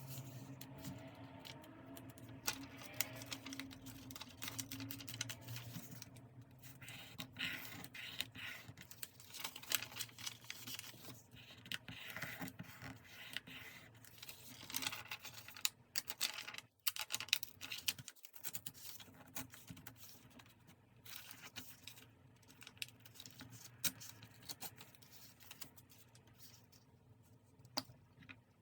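Paper crafting at a desk: paper and stickers being handled, with a steady run of small scratches, rustles and light taps.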